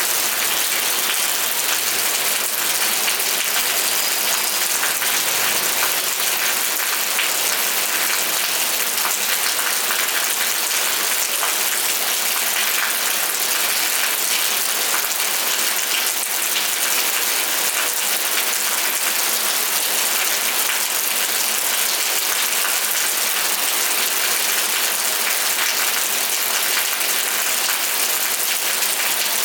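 Steady rain falling, a dense even patter of drops with faint ticks from individual drops.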